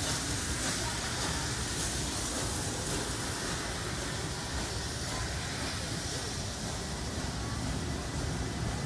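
Steam-hauled heritage passenger carriages rolling past, with a steady rumble of wheels on the rails.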